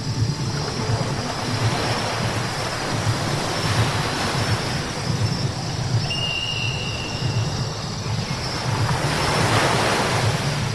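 Car driving on a wet road: a steady low rumble under the hiss of tyres on wet tarmac, the hiss swelling about four seconds in and again near the end. A brief high whine sounds about six seconds in.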